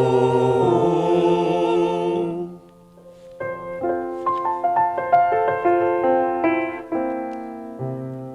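A choir holds the final sung chord of a carol over piano accompaniment, then stops about two and a half seconds in. The piano then plays a closing phrase alone, single notes and then chords, each left to ring.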